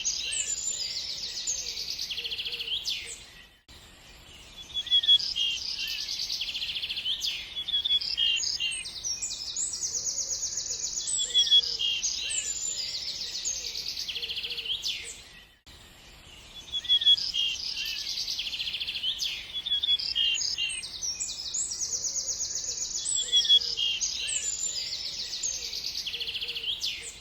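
Small birds chirping and trilling densely and rapidly, with short quiet gaps about four seconds and fifteen seconds in.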